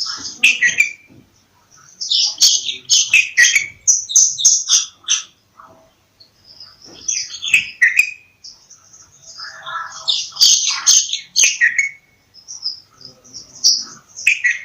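Bulbul calling: bursts of quick, high, chattering chirps in phrases of one to three seconds, with short pauses between them.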